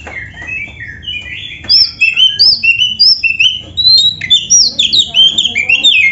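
Oriental magpie-robin (kacer) singing a fast, varied song of repeated slurred whistles. It gets much louder about one and a half seconds in.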